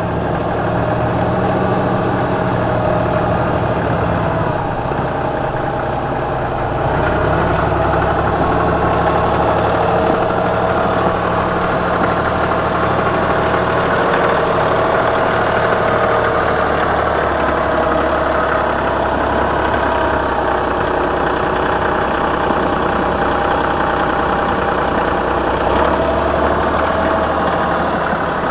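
John Deere 3046R compact tractor's diesel engine running steadily. The engine note changes and grows a little louder about five to seven seconds in.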